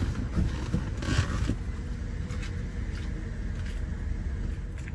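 Car engine running at low speed with a steady low rumble while the car is manoeuvred into a parking space, with a brief noise about a second in.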